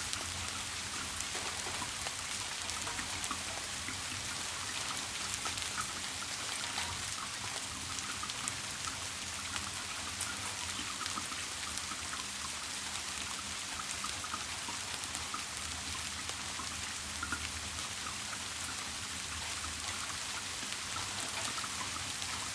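Steady rain falling, with a dense patter of small drops, over a low steady hum.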